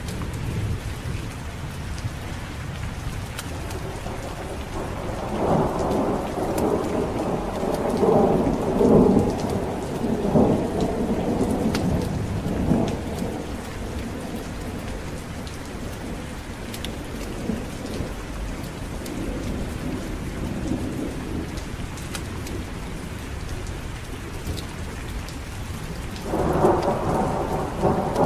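Steady heavy rain with rolling thunder: a long rumble builds about five seconds in and lasts some eight seconds, and another begins near the end.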